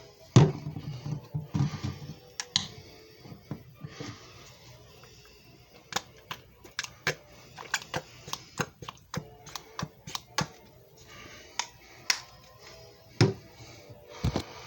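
Irregular sharp clicks and knocks from hands working a JFJ Easy Pro disc repair machine. They come several a second in the middle, with heavier knocks about half a second in and twice near the end.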